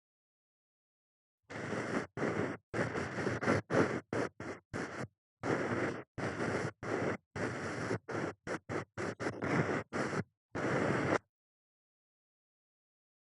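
Ear pick scratching and rubbing during ASMR ear cleaning: a run of short scratchy strokes, some quick and some about a second long, beginning about a second and a half in and ending about two seconds before the end, with total silence between strokes.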